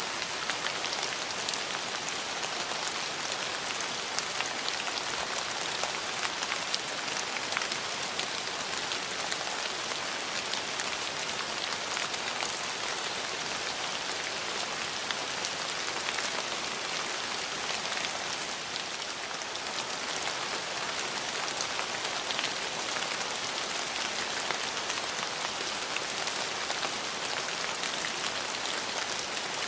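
Steady rain falling on hard surfaces, an even hiss dotted with many small drop ticks, with a brief slight lull about two-thirds of the way in.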